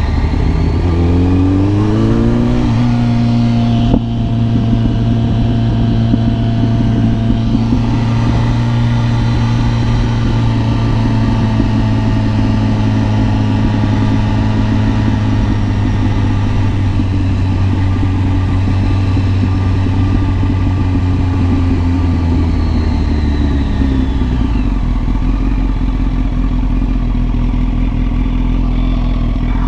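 Kawasaki ZX-10R's inline-four engine under way. It revs up over the first three seconds, breaks briefly about four seconds in, then holds a steady pitch at cruising speed. Near the end the pitch falls as the bike slows, settling at a lower steady note.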